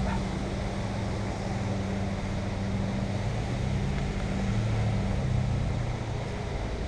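A steady low mechanical hum, with a constant pitch and a faint wider rushing noise under it.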